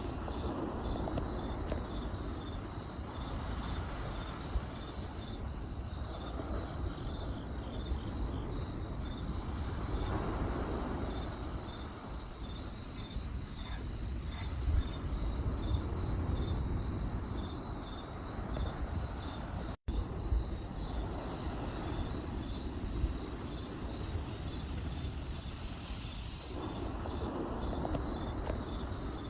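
Campfire burning with a low steady rush and occasional sharp crackles and pops, under crickets chirping in a continuous high-pitched pulsing trill.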